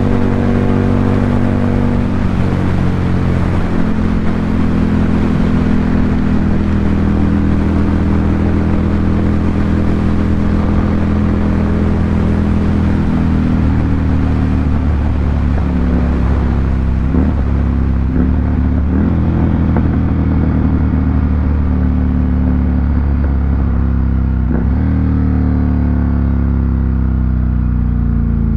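Ducati Monster 797's air-cooled L-twin engine running through an SC Project aftermarket exhaust, holding a steady note with a few small shifts in pitch.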